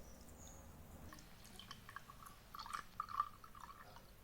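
Faint dripping and small splashes of liquid squeezed from a toy cow udder, coming in scattered drops over the second half.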